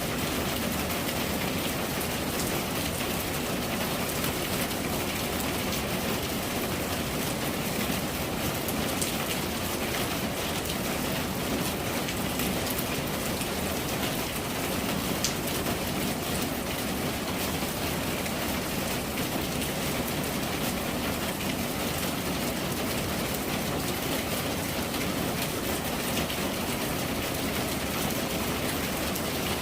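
Steady rain falling, an even hiss of drops on surfaces with a few sharper individual drop ticks.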